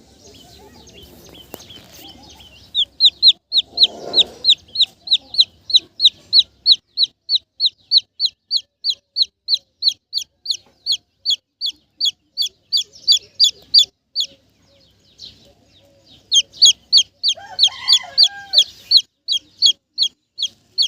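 A desi chicken chick peeping loudly and steadily, about three to four short falling peeps a second, with a break of about two seconds past the middle. Brief lower sounds come in about four seconds in and again near the end.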